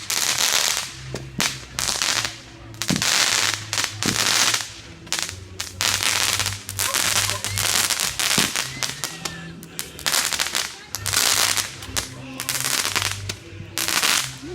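Fireworks going off: strings of rapid firecracker pops and crackles in repeated bursts of about a second each.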